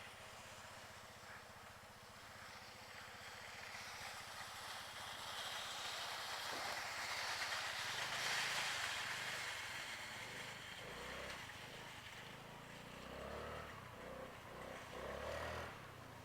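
A vehicle passing by, its tyre and engine noise swelling to a peak about halfway through and then fading, with faint low rumbles after it.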